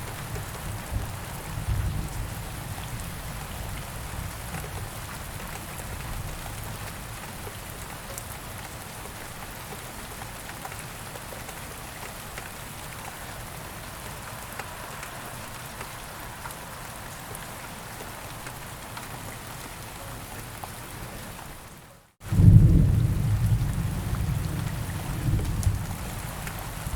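Steady rain falling in a forest. About three-quarters of the way through the sound cuts out for a split second, then a loud, deep rumble of thunder rolls and fades over a few seconds.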